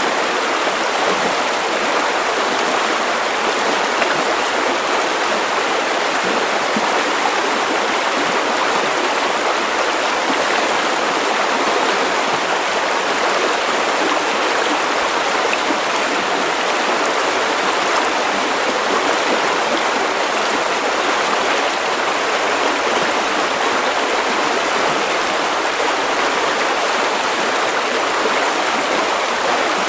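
River water running steadily over stones, a continuous even rush.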